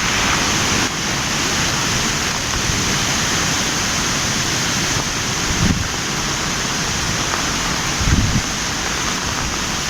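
Heavy cyclone rain pouring steadily, with wind gusts buffeting the microphone a couple of times, about six and eight seconds in.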